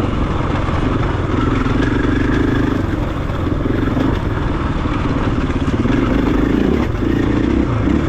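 Single-cylinder four-stroke engine of a KTM 500 EXC-F dirt bike running under throttle while riding up a rocky trail, its note rising and easing with the throttle. There is some clatter from the bike over the rocks.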